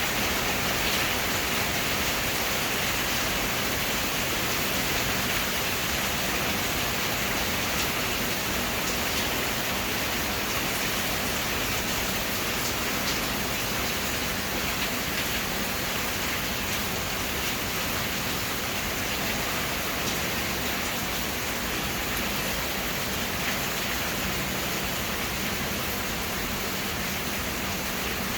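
Steady heavy rain falling and pattering on surfaces, a continuous even hiss with scattered drop ticks.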